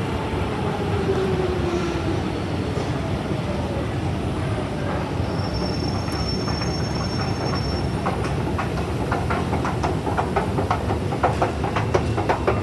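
London Underground Jubilee line train running through the station: a steady low rumble with a falling motor whine near the start. A brief high tone sounds around the middle, and a run of rattling clicks builds over the last few seconds.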